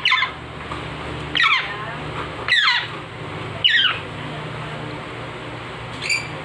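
A baby parrot squealing while being hand-fed: four loud falling squeals about a second apart, then a short call near the end, over a steady low hum.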